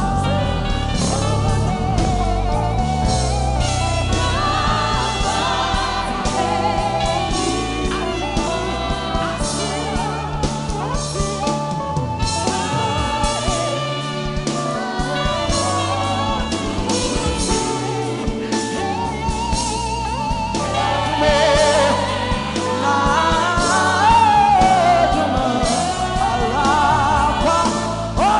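Gospel worship music: a band with bass and drums backing singers, with a vocal line that grows louder and more ornamented near the end.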